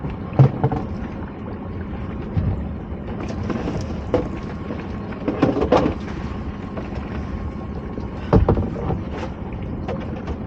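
Knocks and clunks of lobster pot and gear being handled in a small open boat, scattered through a steady low rumble of boat noise.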